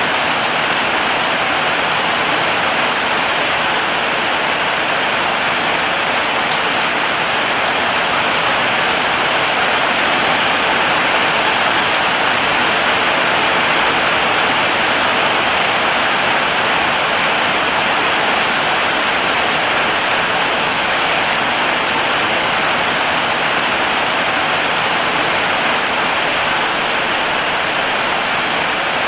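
Heavy rain falling steadily: a dense, even hiss of water with no single drops, thunder or other events standing out.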